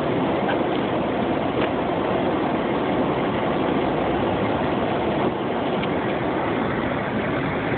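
Jeep driving in snow: a steady, even running noise of engine and tyres.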